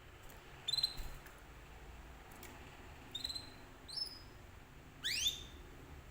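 Domestic canary giving short bursts of high, quickly rising chirps, four times, the last burst about five seconds in the loudest.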